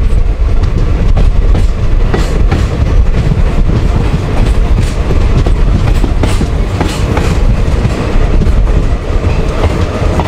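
Passenger train coaches running along the track: a heavy low rumble with repeated clicks of the wheels over rail joints, heard from the open doorway of a moving coach.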